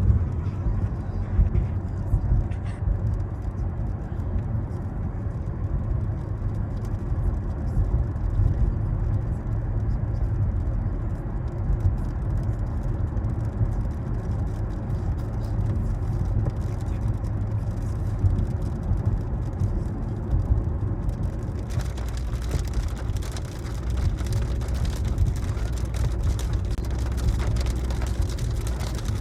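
Steady road and engine rumble of a car driving, heard from inside the cabin. About three-quarters of the way through, a brighter crackling hiss with fine ticks joins the rumble.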